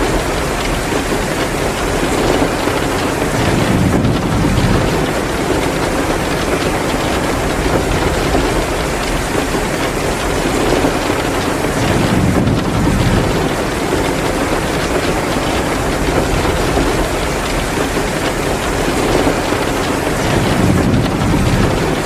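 Heavy rain pouring down in a steady, dense hiss, with a deeper rush swelling up three times.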